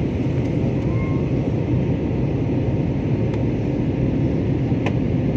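Steady low rumble of an Airbus A320 airliner heard from inside the passenger cabin: engine and airflow noise.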